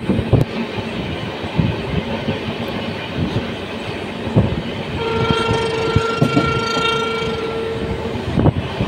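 Passenger train running at speed, heard from inside a coach: a steady rumble with irregular knocks of the wheels over rail joints. About five seconds in, a train horn sounds one steady note for about three seconds.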